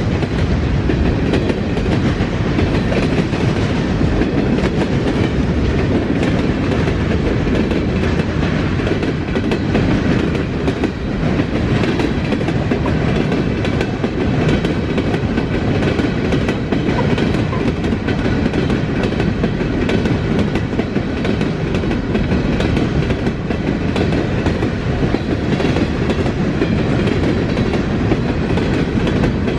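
Norfolk Southern train's railcars rolling steadily past on the track, a continuous loud rumble with the clack of wheels over the rail joints.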